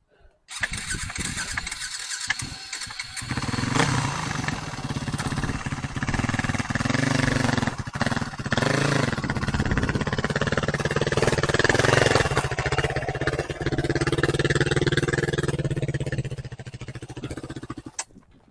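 Motorcycle engine running steadily under way, with a broad rushing noise of wind and road over it; the sound cuts off suddenly near the end.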